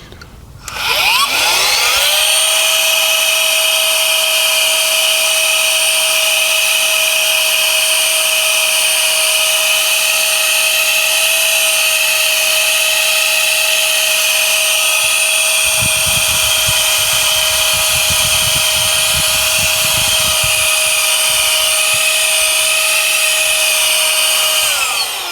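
Small handheld mini vacuum cleaner running: its motor spins up to a steady high whine about a second in, holds while it sucks up loose fine model ballast, and winds down near the end. A low rumble joins for a few seconds past the middle.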